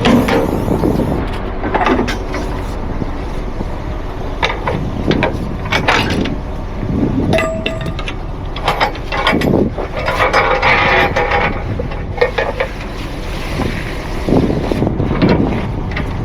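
Truck engine running steadily, with intermittent metallic clanks and rattles on top, the busiest stretch about ten seconds in.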